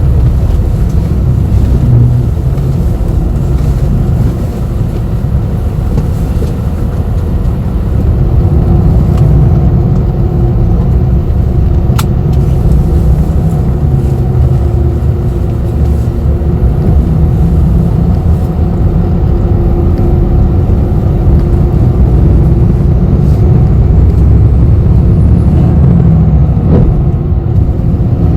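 Inside a moving city bus: a steady, loud low rumble of engine and road noise, with a faint steady hum joining after about eight seconds and a single sharp click partway through.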